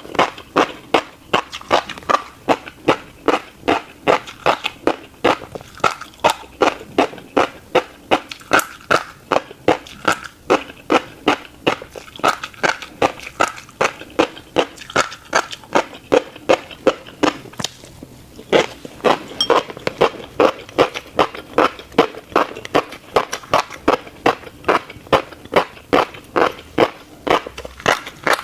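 A person chewing a mouthful of tiny black seeds close to the microphone: a steady rhythm of crisp crunches, about two and a half a second, with a brief pause about two-thirds of the way through.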